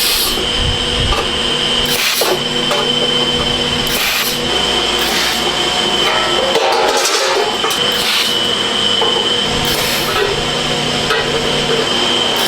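Factory machinery running with a steady high whine, and a short burst of noise recurring about every two seconds.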